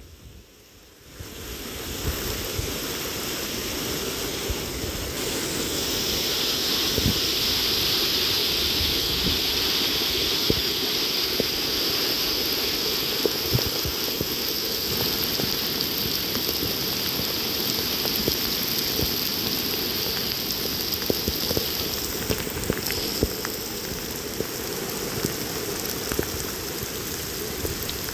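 Rain falling steadily, with many single drops ticking sharply through the hiss. It comes in about a second in, after a moment of near silence.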